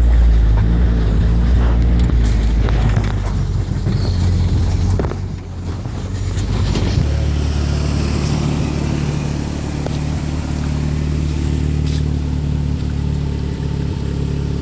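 A motor vehicle's engine runs steadily with road noise. The loudness dips briefly about five seconds in, and about seven seconds in the engine note settles at a new steady pitch, as with a change of speed or gear.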